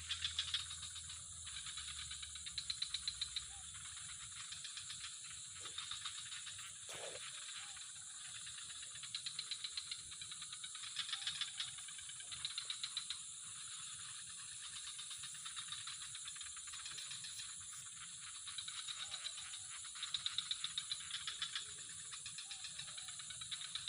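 Insects chirring: a steady high-pitched drone with short, rapid rattling trills that recur every second or two.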